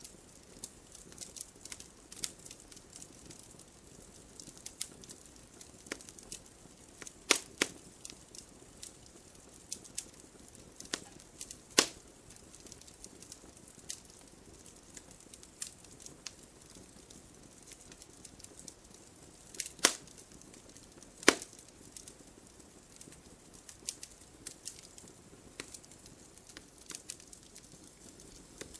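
Wood logs burning in a fireplace, crackling: irregular small snaps and pops over a faint hiss, with a handful of sharper, louder pops.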